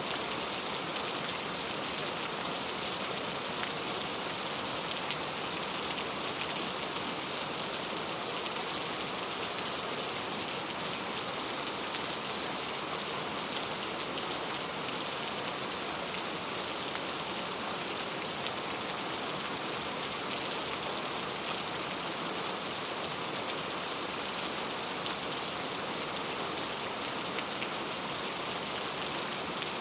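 Steady rain falling, a dense even patter of drops hitting surfaces.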